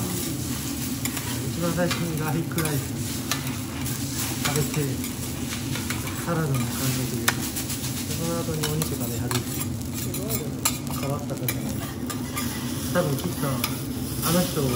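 Egg fried rice sizzling on a flat steel teppan griddle while two metal spatulas scrape, chop and turn it, with frequent sharp clicks of the blades against the steel.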